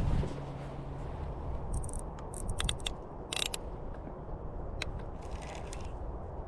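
Fishing reel being cranked, its gears and pawl clicking in short bursts as line is wound in on a fish that has taken the worm.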